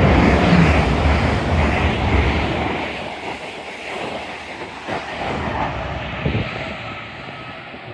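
A train passing through the station: a loud rush of wheel and air noise, loudest at the start, fading over the next several seconds.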